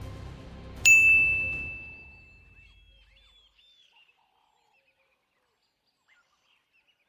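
A single bright bell-like ding about a second in, ringing on one clear tone and fading away over about two seconds, as the background music dies out.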